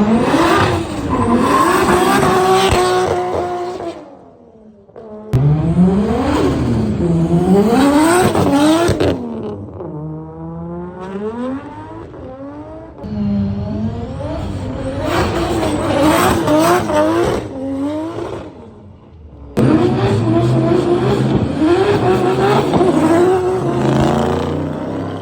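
Car engines revving hard in a string of short clips cut together, the pitch climbing and dropping again and again as they rev up and shift. Around ten seconds in, one engine's pitch falls away steadily as it comes off the throttle.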